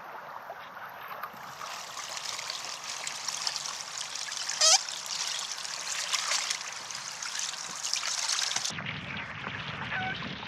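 Water splashing and trickling around a canoe, with one brief, loud chirp about halfway through; the sound changes abruptly near the end.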